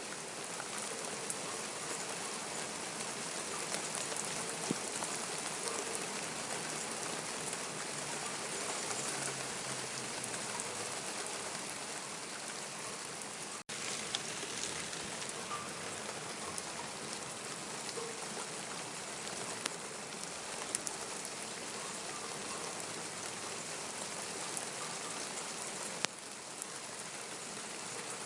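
Steady rainfall pattering on surfaces, with scattered individual drops ticking close by.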